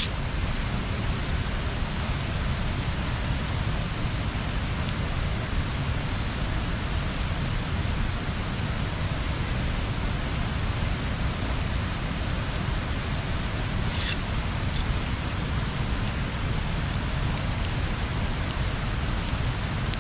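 Wood bonfire burning: a steady hiss of the flames with occasional sharp pops and crackles from the wood, two of them close together about 14 seconds in.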